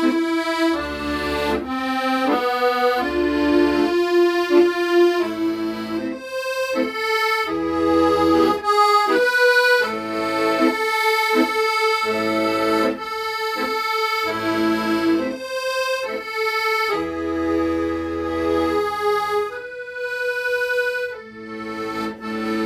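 Accordion playing a slow, sentimental melody of held notes over low bass notes.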